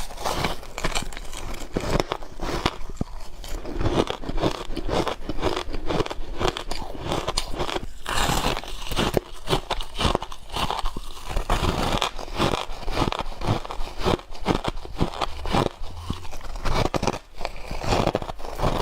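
Ice being bitten and chewed close to the microphone: a continuous run of sharp, irregular crunches and crackles, busiest about halfway through.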